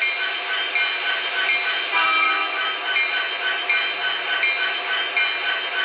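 Recorded locomotive sound effects from an MTH HO-scale SD70ACe's onboard sound system, played through the model's small speaker. Over a steady diesel rumble, a locomotive bell rings at an even pace, about one strike every three-quarters of a second, as part of the freight announcement sequence.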